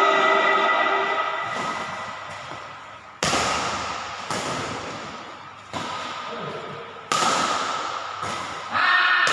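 Badminton shuttlecock being hit with a Gallant Tour racket strung with Kizuna D61 at 27 lbs: five sharp string pops from about three seconds in, roughly every second and a half, each ringing on in a large hall.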